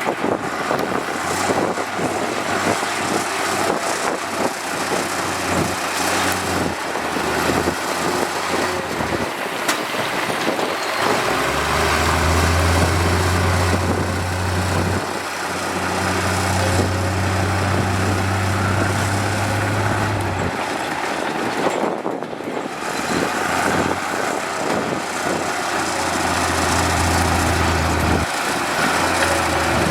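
Heavy road-construction machinery engines running, a steady mechanical din with a deep engine drone that swells for long stretches and drops away between them.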